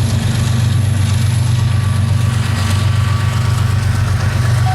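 Diesel locomotive engine running loud and steady close by, a deep drone with a fast even pulse: the mid-train DPU of a passing auto rack freight train.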